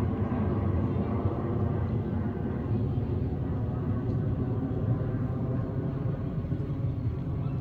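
Boeing 737-800's CFM56-7B jet engines running with a steady low rumble.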